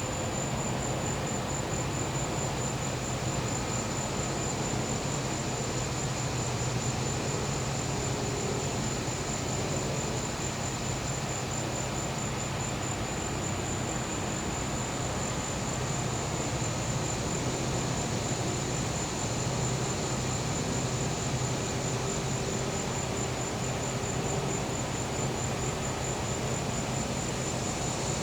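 Crickets trilling in a steady, high, pulsing chorus over the constant low hum of a gas-powered generator.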